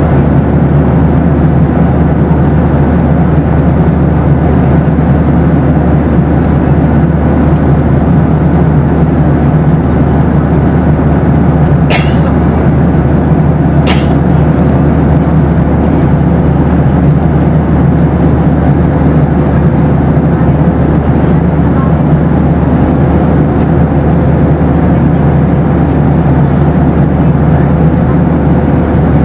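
Steady cabin noise of a Boeing 737 airliner in flight: a constant low rumble and rush of air with a faint steady hum. About halfway through there are two short clicks, two seconds apart.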